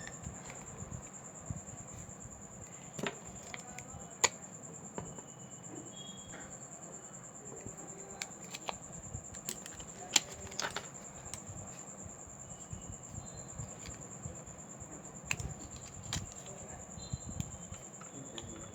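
Scattered light clicks and taps of small tools and parts handled on a smartphone during repair, the sharpest about four and ten seconds in, over a steady high-pitched tone.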